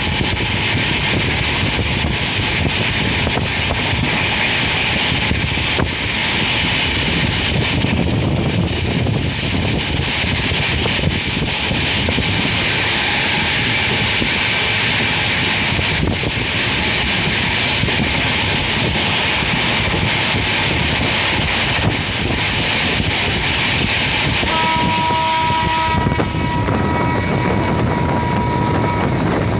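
Express passenger train running at speed, heard from an open coach window: steady wheel-and-rail noise mixed with wind rushing past the microphone. Near the end a steady high tone sounds for about five seconds over the running noise.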